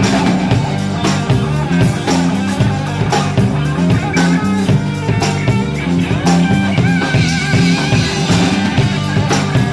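Rock band playing: electric guitar over a bass line and a steady drum-kit beat, with a held, wavering high note about seven seconds in.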